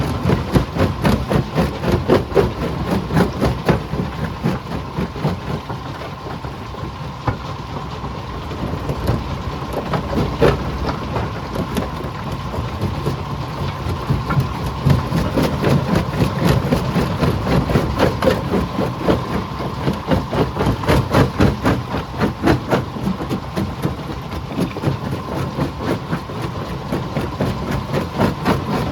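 Stone crusher running under load, a dense, irregular clatter and knocking of rock being broken, over a low engine rumble and a steady hum. It swells louder near the start and again through the middle.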